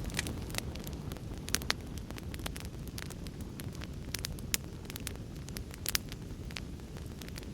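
Wood fire in a fireplace crackling, with irregular sharp pops and snaps over a steady low rumble of the storm.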